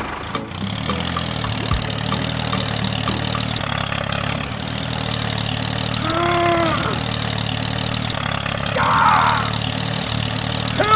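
Tractor engine running steadily. About six seconds in, one short animal call, rising then falling in pitch, and near nine seconds a brief rough noise.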